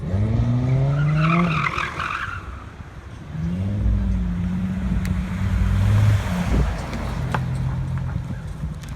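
Chevrolet Camaro V8 being revved: a quick rev rising in pitch, a pause, then a rev held for about three seconds that falls back to a lower steady running near the end.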